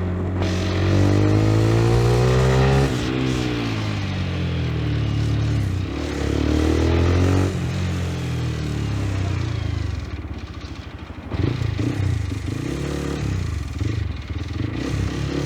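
125 cc single-cylinder motorcycle engine pulling up through the gears. The pitch rises, drops at a shift about three seconds in, climbs again and drops at another shift halfway through, then eases off and goes quieter about ten seconds in before the engine picks up again.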